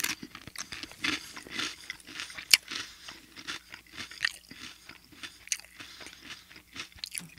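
A person chewing a mouthful of crisp toasted cracker topped with a creamy spread: irregular crunches and crackles, with one sharp, loud crunch about two and a half seconds in.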